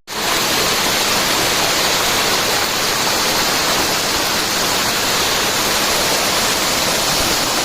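Steady rush of falling water from a rainforest stream or small waterfall, an even hiss that holds at one level throughout.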